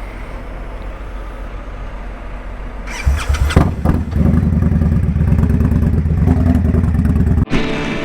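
Indian Scout Bobber motorcycle's V-twin engine starting about three seconds in, then idling steadily until it cuts off suddenly near the end. Before the start, only a low steady background hum.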